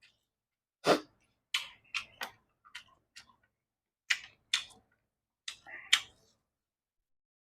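Close-up eating sounds: a string of short, sharp crunches and mouth smacks in small clusters, about a dozen in all, stopping a little after six seconds in.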